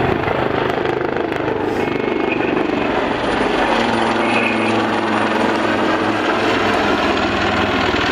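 AgustaWestland Wildcat HMA2 helicopters flying a display pass: steady rotor and twin-turboshaft engine noise with a faint high turbine whine.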